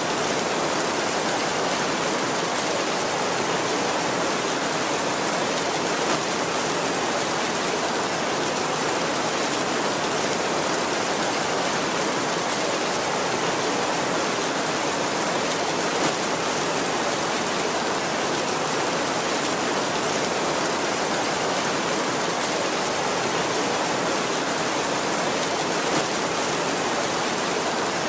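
Heavy rain falling steadily on a tin roof, an even hiss with three brief louder hits spread through it.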